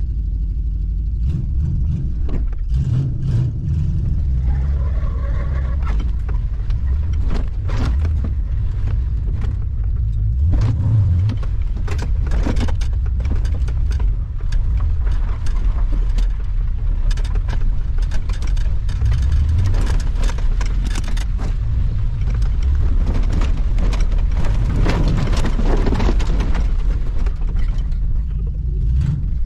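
A truck engine running as the vehicle drives and drags another truck, a steady low rumble with frequent knocks and rattles.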